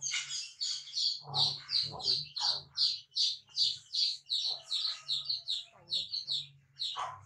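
A small bird chirping rapidly and steadily, about three short high chirps a second, over a faint low hum.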